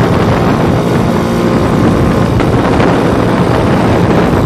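Heavy wind noise on the microphone of a small motorcycle on the move, its engine running steadily underneath.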